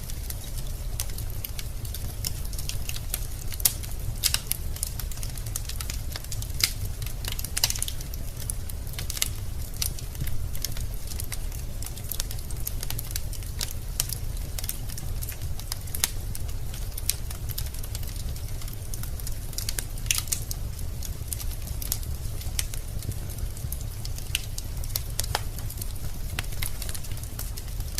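Wood fire in a fireplace burning with a steady low rumble and frequent irregular crackles and pops of the burning logs.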